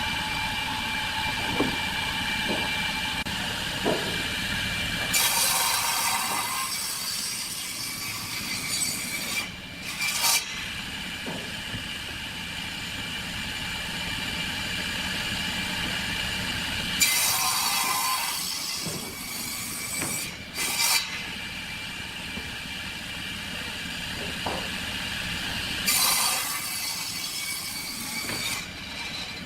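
Wood lathe running with a steady whine while a turning tool cuts the spinning wood. Three louder scraping passes of the tool come at roughly ten-second intervals, with a few short knocks between them.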